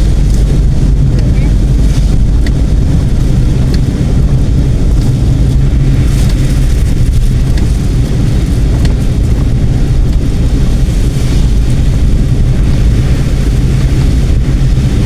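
Steady car road and engine rumble heard from inside the moving car, with wind noise on the microphone.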